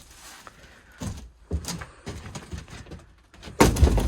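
Blows knocking against the wooden shed's framing as it is being taken apart: a few light knocks, then one heavy thud near the end.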